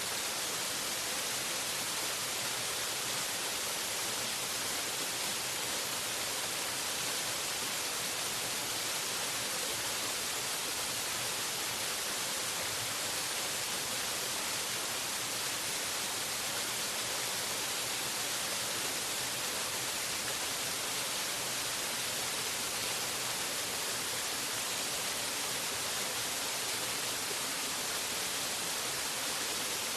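Waterfall: steady rushing water, an unbroken hiss that is strongest in the high range and never changes.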